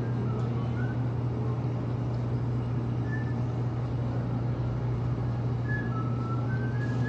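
Steady car interior noise while driving: a constant low engine and road hum.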